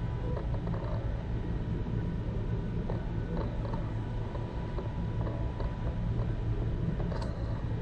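Steady low rumble of a BART train car heard from inside the car as it runs, with a few faint clicks.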